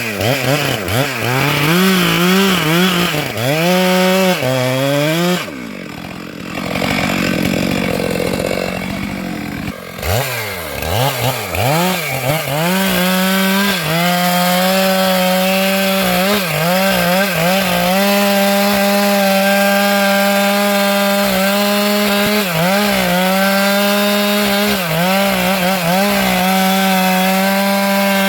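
Stihl MS 462 two-stroke chainsaw revving up and down in short bursts, then falling back to a quieter, rougher running for a few seconds. It then runs at steady high revs with brief dips in pitch as it cuts through wood.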